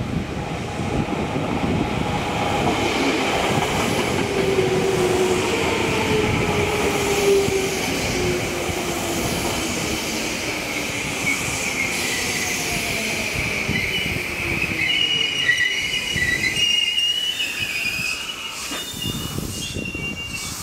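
Tokyo Metro 7000 series electric train arriving and braking to a stop. Its motor whine falls steadily in pitch as it slows, under the rumble of the wheels. High wheel and brake squeal rises near the end, and the rumble dies away as it halts.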